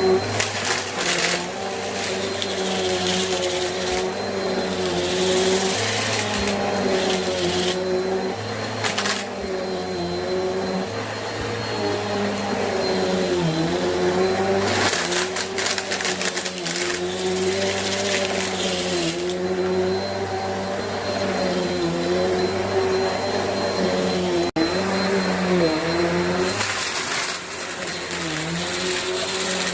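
Bissell vacuum cleaner running steadily, its motor hum dipping briefly in pitch every two seconds or so. Several stretches of louder, crackling hiss come as it sucks up small rubber bands.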